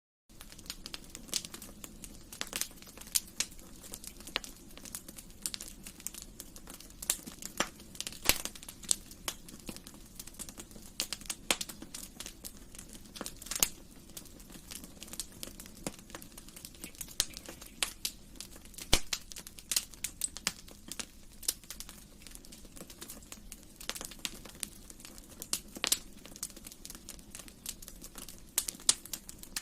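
Wood fire burning in a fireplace, crackling with irregular sharp pops and snaps over a low, steady hiss of the flames.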